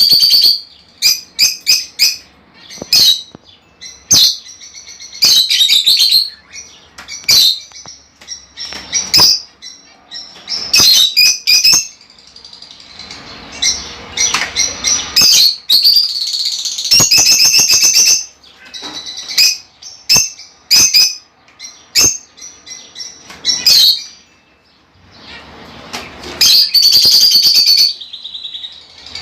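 Budgerigars chirping and warbling in rapid bursts of high, scratchy chirps with short pauses between them.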